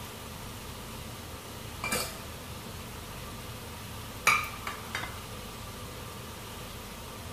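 Chopped tempe frying in hot oil in a wok with a steady sizzling hiss. Ringing metal clinks of kitchenware come about two seconds in, then a louder clink about four seconds in, followed quickly by two lighter ones.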